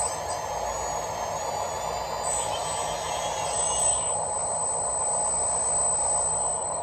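Small electric motors and gearboxes of RC construction models whirring steadily under load, with a high whine that wavers in pitch for the first few seconds and then fades.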